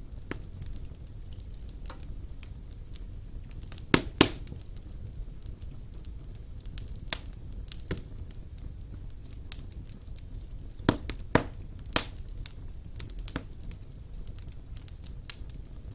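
Wood fire burning in a fireplace, crackling with scattered sharp pops over a low rumble of flame. A pair of loud pops comes about four seconds in, and three more about two-thirds of the way through.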